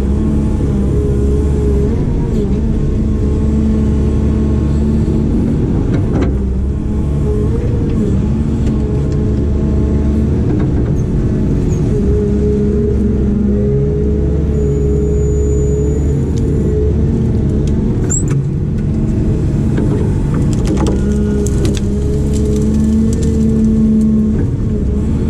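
Diesel engine of a heavy earthmoving machine running steadily, its pitch wavering a little. There is a sharp knock about six seconds in and a few more clanks near the end.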